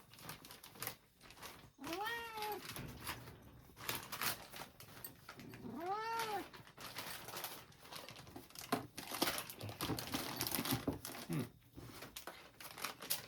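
A house cat meowing, two clear drawn-out meows about four seconds apart, each rising then falling in pitch, with a fainter short call later; light clicks and taps around them.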